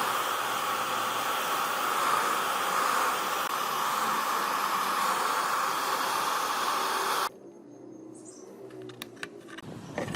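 A steady, loud hiss that cuts off abruptly about seven seconds in, followed by a few light clicks and knocks.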